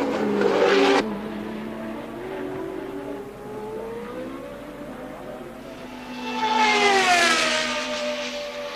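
Formula One racing car engines at high revs: a loud burst that cuts off abruptly about a second in, then an engine note climbing in pitch, and a car passing close about seven seconds in, its note falling in pitch as it goes by.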